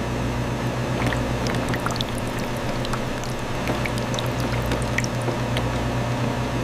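Production machinery running with a steady low hum, sprinkled with brief high-pitched clinks and squeaks.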